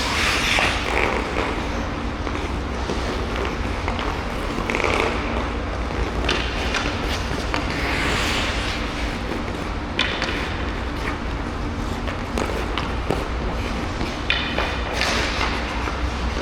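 Ice hockey skate blades scraping the ice in several strokes, with sharp clacks of a stick on the puck over a steady low rink hum.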